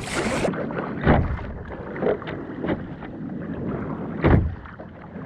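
Kayak paddle strokes splashing into the sea, roughly one a second and slightly uneven, the loudest about four seconds in, over a steady background hiss.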